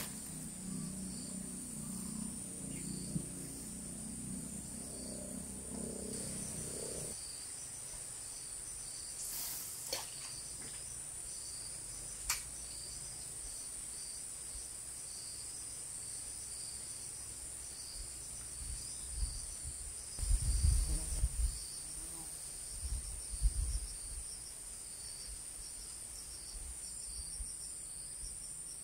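Insects chirring without a break: a steady high-pitched whine with a faster pulsing chirp just beneath it. A low murmur fades out about seven seconds in, and a few low thumps come about two-thirds of the way through.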